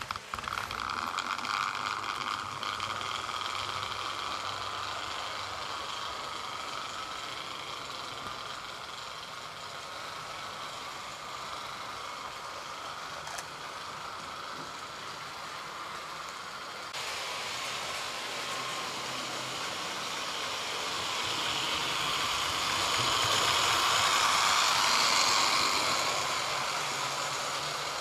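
A 00 gauge Trix model of an LNER A4 locomotive running at speed on the track: a steady whir of the motor and rumble of the wheels, which grows louder about three-quarters of the way through as it passes close by.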